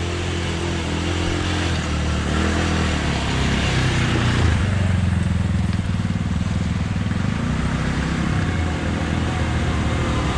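A motor-vehicle engine running steadily nearby, with a low, even hum whose pitch wavers a little a few seconds in.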